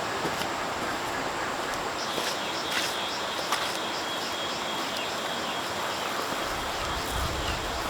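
Outdoor ambience: a steady hiss of background noise, with a bird giving a rapid run of short high chirps for a few seconds in the middle and a few light knocks.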